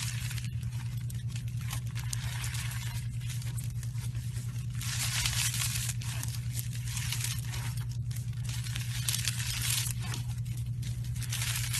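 Slime being squeezed and stretched by hand, a crackly, crinkling sound that swells in waves, over a steady low hum.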